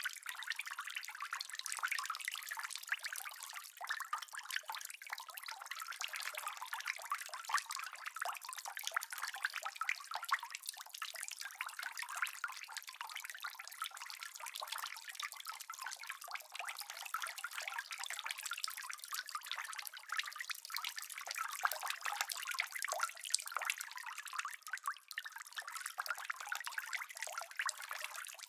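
Steady rain: a dense, even patter of drops, thin and trebly with no low rumble.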